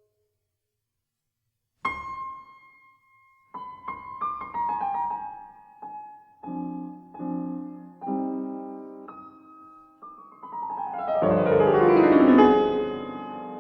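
Background piano music. After about two seconds of silence, single notes and chords are played, then a fast descending run of notes near the end.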